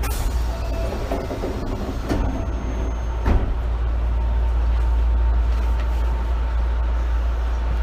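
Osaka Municipal Subway 66 series train running, heard from inside the passenger car: a steady low rumble with a few sharp clicks from the wheels and rail joints, the loudest about three seconds in, and a brief thin high whine just before it.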